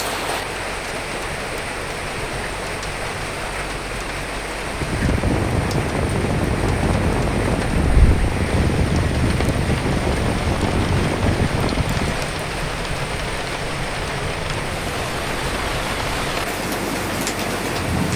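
Steady rain falling, with a deeper gust of wind swelling up about five seconds in. The gust is strongest near the middle and dies back down a few seconds later.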